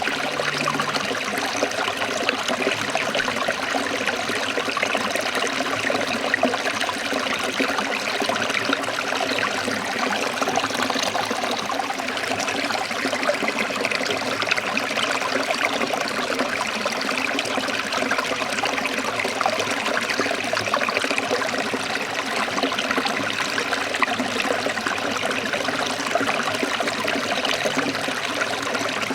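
Water of a forest stream trickling and flowing steadily, an even rushing sound with no break.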